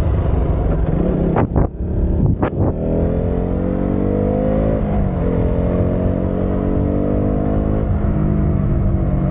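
Motorcycle engine under way, its pitch rising as it accelerates, falling sharply at a gear change about five seconds in, then climbing again and easing near the end. There are two short knocks a couple of seconds in, over steady wind and road noise.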